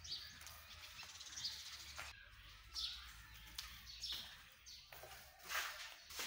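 A bird calling: a short high chirp repeated at an even pace, about once every second and a half, with a few faint clicks in between.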